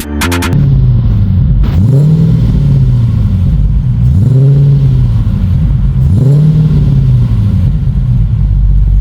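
LS V8 engine running through a 3-inch catback exhaust with large silencer boxes, idling and blipped three times about 2, 4.5 and 6.5 seconds in, the pitch rising and falling back to idle each time.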